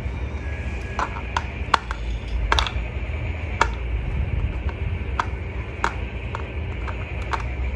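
Hands handling a toy and its packaging during an unboxing: irregular light clicks and taps, about one or two a second, over a steady low hum.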